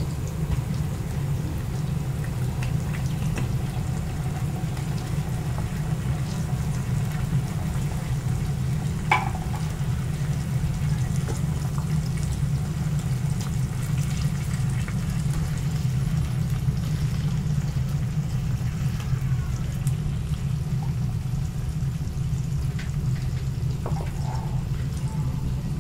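Onions and garlic sautéing in a pan, a soft sizzle under a steady low rumble, with a single light utensil knock about nine seconds in.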